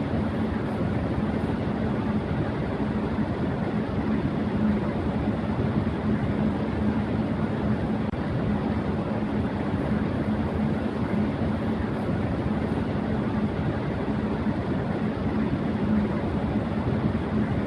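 Electric fan running at high speed: a steady rush of moving air with a low hum underneath.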